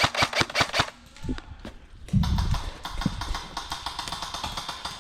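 Airsoft gun firing a rapid string of sharp shots, about seven a second, that stops just under a second in. About two seconds in there is a heavy thump, then a stretch of rustling with faint rapid clicking.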